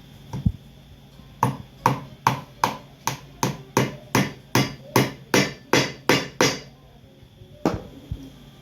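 Hammer blows on a boot sole during resoling: a single knock, then a steady run of about fourteen evenly spaced strikes, a little under three a second, then one more knock near the end.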